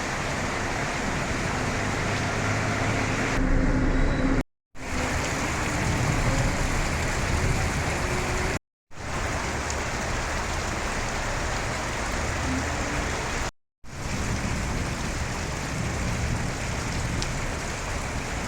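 Heavy rain pouring down in a steady hiss. It cuts out completely three times for a moment.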